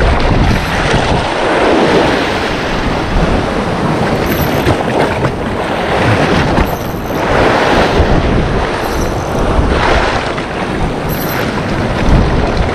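Sea waves washing in against the shore, swelling and falling back every few seconds, with wind buffeting the microphone.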